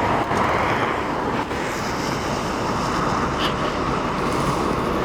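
Steady rushing wind noise over a constant low rumble.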